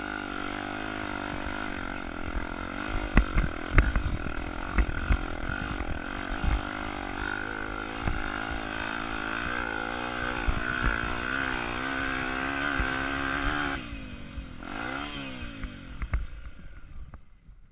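Tornado 300 trail motorcycle engine pulling up a rough climb, its revs rising and falling, with sharp knocks and clatter from the bike over the ground. About 14 seconds in the throttle closes, a short rev follows, and the engine sound then fades away.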